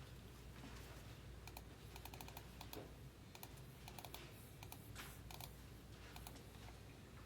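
Faint computer keyboard typing: scattered key clicks, some in quick runs, over a low steady hum.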